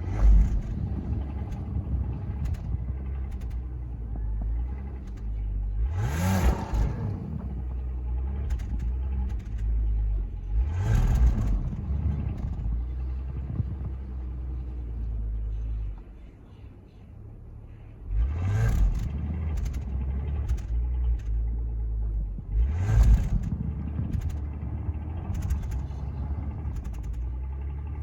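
Car engine running with a steady low rumble, revved up in four rising surges as the car tries to drive out of deep snow where it is stuck.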